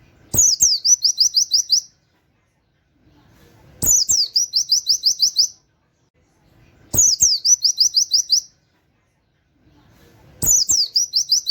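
Pleci (white-eye) singing its 'nembak' song in four repeated phrases, each a quick down-sweeping note followed by a fast run of about eight high canary-like 'wit wit' notes. There is a short pause between phrases.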